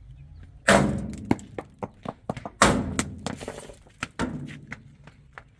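Two loud crashes about two seconds apart, each followed by a rattling clatter of smaller knocks, with another knock a little later.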